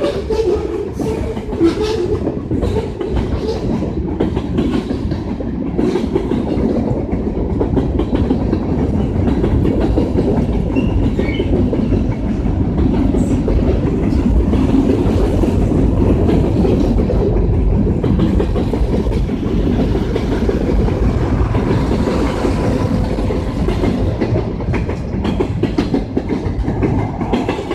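Freight train cars rolling past, steel wheels clicking over the rail joints in a steady rumble.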